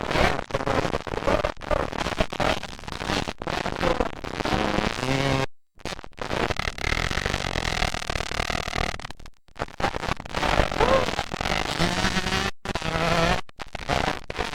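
Dirt bike engines running and revving in a noisy, rough mix, cut off abruptly by several short gaps of silence.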